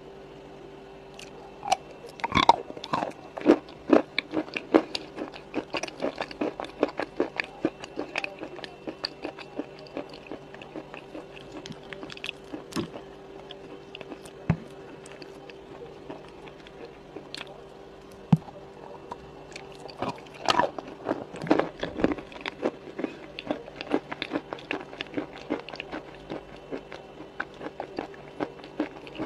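Close-miked crunchy biting and chewing of food: irregular sharp crunches, thickest in bursts a couple of seconds in and again around two-thirds of the way through. A faint steady hum runs underneath.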